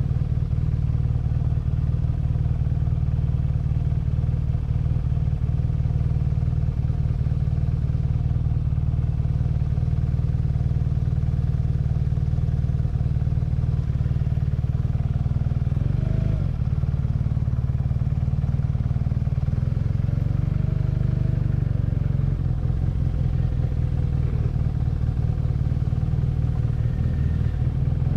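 BMW R nineT's 1170 cc boxer twin running steadily under way. About halfway through the revs change briefly, and later they rise and fall a few times.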